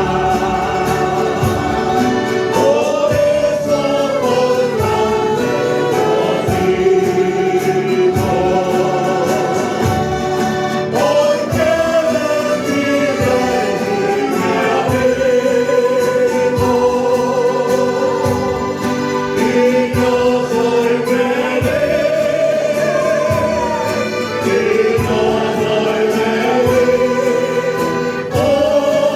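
Church choir singing a hymn in sustained, gliding lines over accompaniment with a steady beat.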